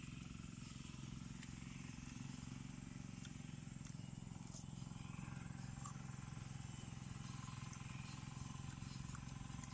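A few faint crunches of raw jicama being bitten and chewed, over a steady low mechanical hum.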